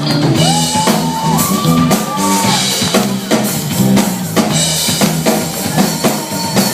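Rock band playing an instrumental passage, with the drum kit keeping a steady beat under bass and sliding, bending lead notes.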